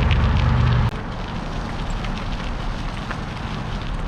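Mountain bike tyres crackling over a gravel trail while riding, with wind rumbling on the microphone until it drops away abruptly about a second in.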